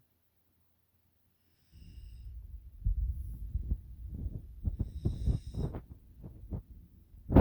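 Pungsan dog puppy snoring in its sleep: a rough, crackling snore that starts about two seconds in, after near silence. A sharp, loud sound comes right at the end.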